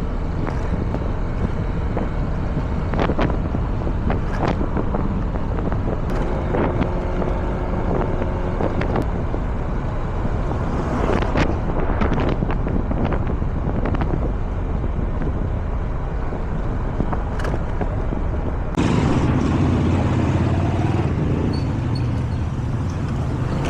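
Scooter ride: steady engine and road noise, with scattered light clicks. About nineteen seconds in the sound steps up suddenly to a louder, deeper rumble.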